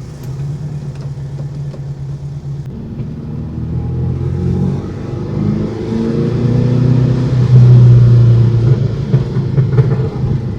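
Turbocharged air-cooled VW Beetle engine pulling the car along, running steadily for the first few seconds, then climbing in pitch and growing louder, loudest about eight seconds in. It runs without the ticking of the exhaust leak, its blown exhaust gasket replaced.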